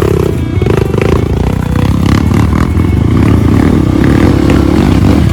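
Off-road trail motorcycle engine running under load: the revs drop briefly at the start, then pick up again and hold steady, with scattered knocks and rattles from the bike.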